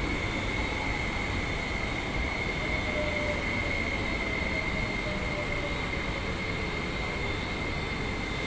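MTR East Rail line electric train pulling into the platform and slowing to a stop, with steady wheel-and-track noise and a constant high whine. About three seconds in, a fainter tone falls in pitch over several seconds as the train brakes.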